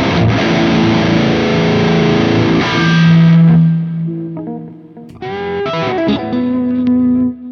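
Distorted electric guitar, a 1991 Ibanez Universe UV7P seven-string, playing dense riffs, then a held note that rings out and fades about four seconds in. A new phrase follows with wavering, vibrato notes and another held note.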